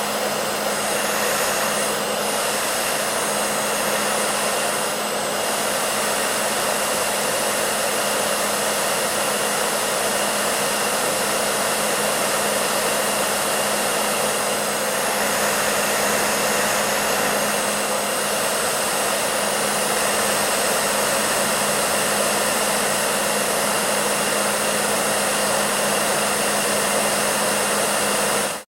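Hair dryer running steadily: an even rush of blown air over a low, constant motor hum, cutting out for an instant near the end.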